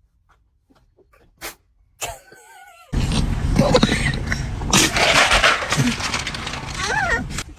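Cockatoo calling: a wavering, whistle-like call about two seconds in, then several seconds of loud, harsh screeching with short rising and falling squawks.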